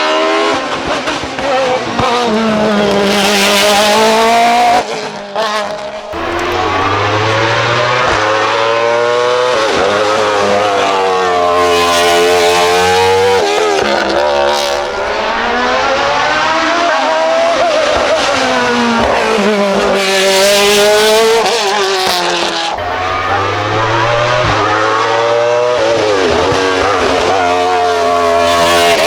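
Racing car engine working hard up a hill course, its revs climbing through each gear, dropping sharply on shifts and braking, then climbing again, over and over.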